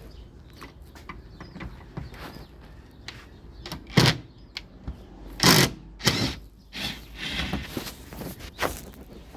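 Hand tools and metal car parts being handled: irregular clicks and knocks, with a few louder short scrapes and clunks about four, five and a half and six seconds in.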